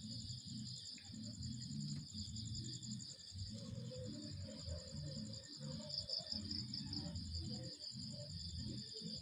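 Night insect chorus of crickets trilling steadily in two high-pitched bands, over a low uneven rumble.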